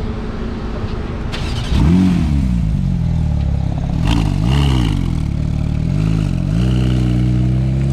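Porsche 911 GT3's flat-six engine revved sharply up and back down about two seconds in, blipped again twice around four and six seconds, then revs climbing steadily near the end as the car pulls away.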